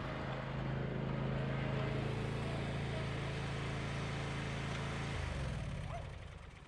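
Zero-turn riding mower's engine running steadily. About five seconds in its note drops, and near the end it winds down and fades away.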